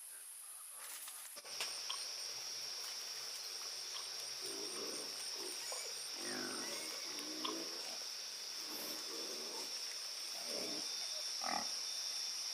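An animal grunting in short, low calls, about six of them roughly a second apart, over a steady high-pitched drone.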